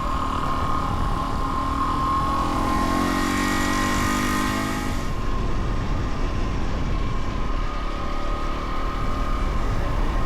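Dual-sport motorcycle engine running under way, its revs rising for a couple of seconds and easing off about five seconds in, over a steady rumble.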